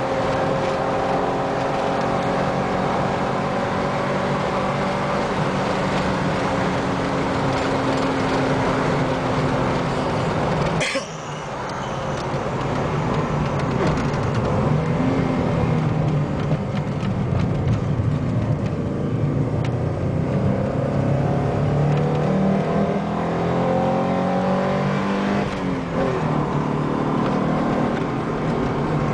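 Alfa Romeo 33 1.7 16v flat-four engine running hard on track, heard from inside the car. The note holds steady, breaks off suddenly about a third of the way through, then climbs again as the revs rise, with another brief break near the end, as at gear changes.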